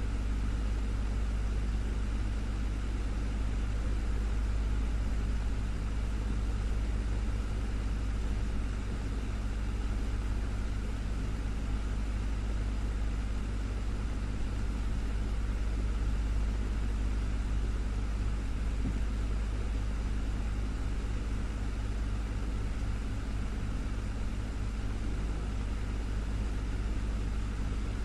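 Desktop fan running steadily: a constant low hum from the motor under an even rush of air from the blades.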